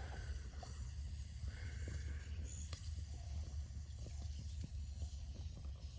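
Wood campfire crackling with small irregular pops and a faint hiss, over a steady low rumble.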